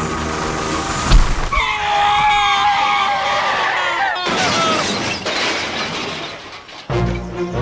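Crash sound effect: a sharp impact about a second in, followed by shattering with a few seconds of ringing, then background music comes in near the end.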